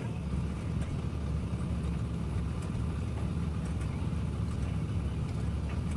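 An engine idling steadily: a continuous low rumble with a faint steady hum above it.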